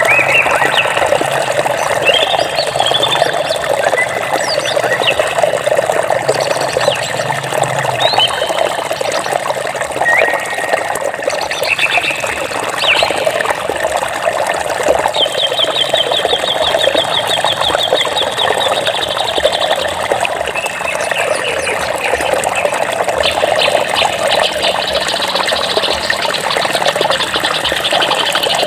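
Steady rush of flowing water with several songbirds chirping over it, and a fast trill lasting a few seconds about halfway through.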